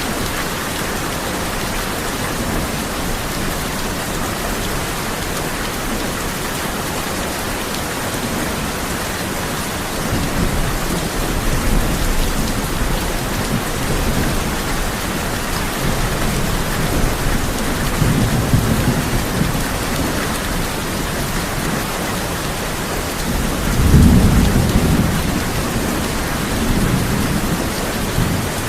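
Steady heavy rain falling on a tin roof, with thunder rumbling low three times, the loudest rumble near the end.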